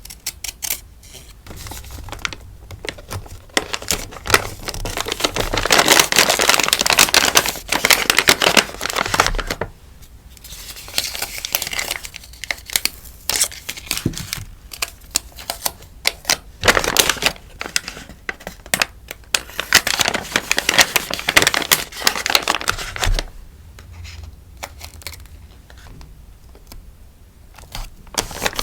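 Crinkling and rustling of packaging handled while packing stickers, in loud stretches several seconds long with quieter handling and light taps in between.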